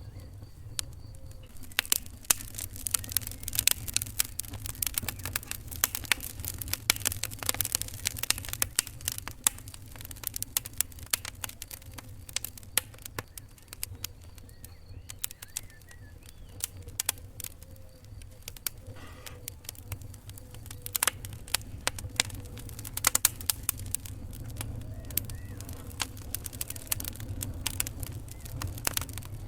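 Wood fire crackling: many sharp pops and snaps over a low steady rumble, thinning out for a while midway.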